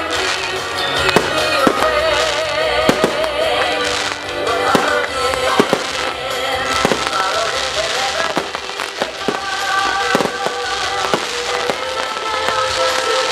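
Fireworks display: irregular sharp bangs of shells bursting, over music with sustained melodic tones that plays along with the show.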